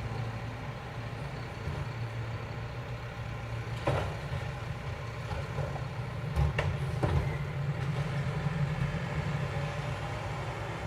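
Mack LEU garbage truck with a Heil Multitask body: its engine runs steadily, with sharp clunks about four seconds in and again about six and a half and seven seconds in.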